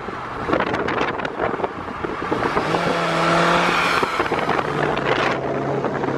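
A car driving with engine drone and road noise, the engine pitch rising and then settling about halfway through.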